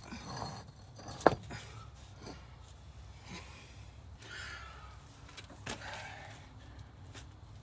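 Scattered knocks and clicks of hard objects being handled, with one sharp knock about a second in and brief scraping in the middle, over a low steady rumble.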